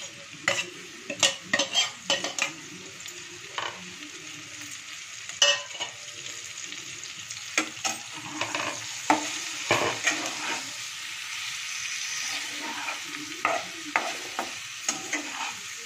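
Radish slices frying in oil in a kadai, with a steady sizzle, while a slotted spatula scrapes and knocks against the pan as they are stirred, giving many short clicks.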